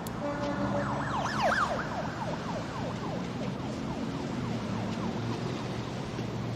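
A siren sounding in rapid up-and-down sweeps, about three a second, starting about a second in and fading away, over a steady low rumble like traffic.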